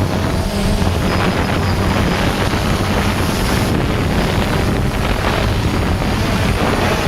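DJI Phantom quadcopter's motors and propellers droning steadily with a hum, heard through the GoPro mounted on it, with strong wind buffeting the microphone.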